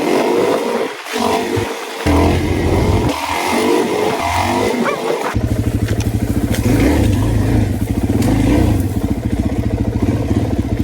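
Suzuki DR-Z400E dirt bike's single-cylinder four-stroke engine, revving up and dropping off in uneven bursts for the first five seconds, then running steadily under way.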